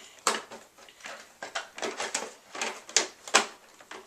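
Hard plastic parts of a Hoover vacuum cleaner knocking and clicking as they are handled and fitted together: several sharp clacks with lighter rattling in between.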